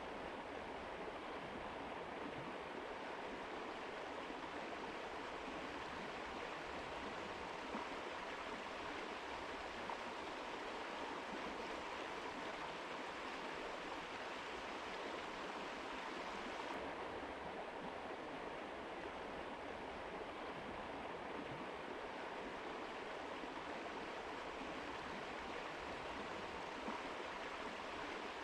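Mountain river flowing: a steady, even rush of water. Its higher hiss dulls slightly a little past halfway through.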